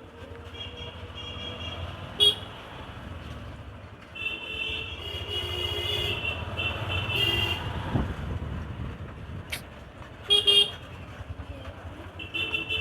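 Vehicle horns honking in road traffic over the low rumble of a moving motorcycle. There is a short sharp beep about two seconds in, a stretch of longer honking in the middle, a quick double beep near the end, and more honking at the very end.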